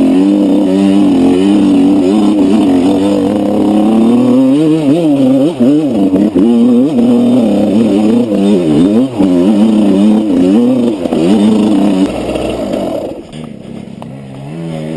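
Enduro motorcycle engine running hard. It holds a steady pitch for the first few seconds, then rises and falls quickly as the throttle is opened and shut over rough ground. It drops away about twelve seconds in and picks up again near the end.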